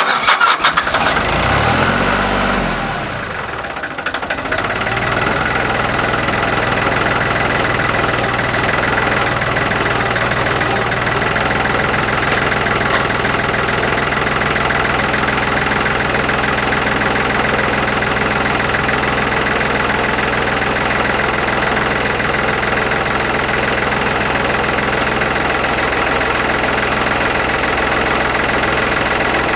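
Ford compact tractor's diesel engine starting up, revving briefly, then running at a steady idle.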